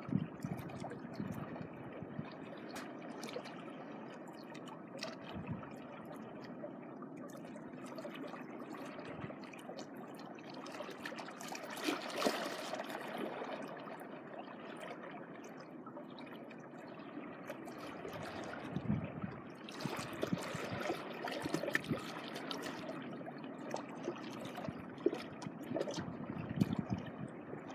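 Small waves lapping and washing on the shore, swelling louder about twelve seconds in and again around twenty seconds.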